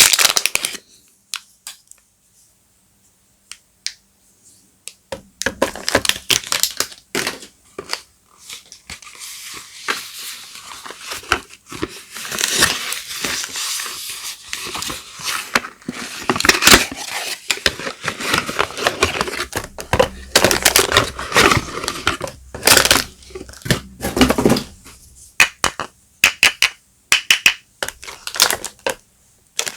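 Soap bar wrappers being crinkled and torn open by hand: irregular crackly crinkling with many sharp little clicks. It starts after a few quiet seconds near the beginning and grows sparser near the end.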